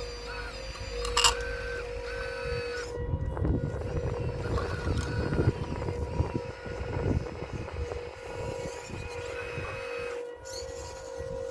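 Electric motors and hydraulic pump of an RC model excavator whining steadily, the pitch shifting as the arm works. For a few seconds in the middle, stones grind and clatter as the wall is broken up.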